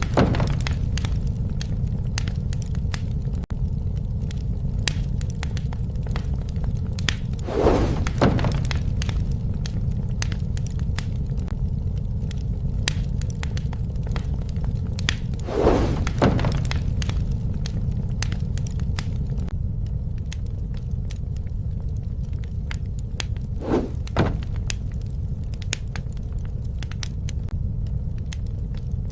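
Bonfire burning: a steady low rumble of flames with many sharp crackles and pops of burning wood, and a brief louder swell about every eight seconds.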